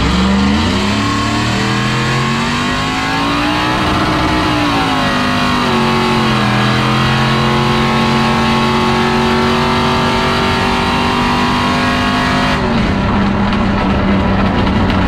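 A car engine under load: its pitch climbs for about four seconds, falls away, then holds steady before dropping again near the end.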